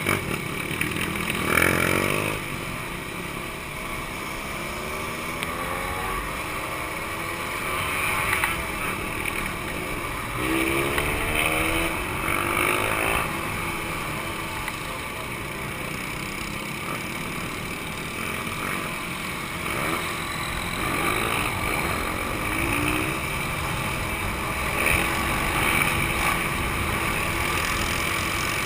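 Two-stroke motorcycle engines running, revved up in rising bursts several times: about 2 seconds in, around 6 seconds, twice between 10 and 13 seconds, and again after 20 seconds.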